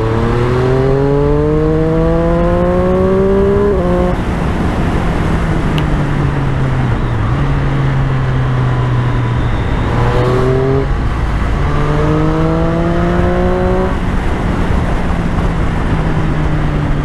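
Triumph Street Triple 765's three-cylinder engine under way, revs climbing for about four seconds, dropping at a gear change, holding steady, then climbing twice more from about ten seconds in. Wind and road noise run underneath.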